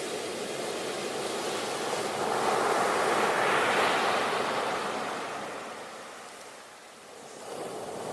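Ocean waves breaking on the shore: one wave swells and peaks a few seconds in, washes out to a lull, and the next begins building near the end.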